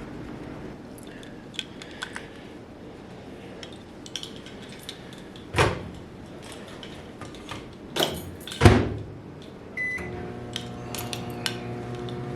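Microwave oven being loaded and started: small clicks and handling knocks, two loud thumps of the door, a short beep from the keypad about ten seconds in, then the steady hum of the oven running.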